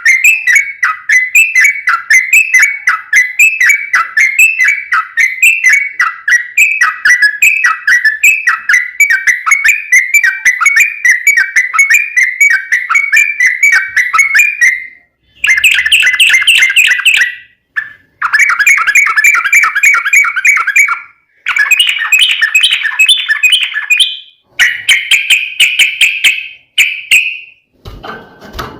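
Yellow-vented bulbul (trucukan) singing a long, fast chattering song of bright repeated notes. It runs without a break for about fifteen seconds, then comes in bursts of two to three seconds with short silences between.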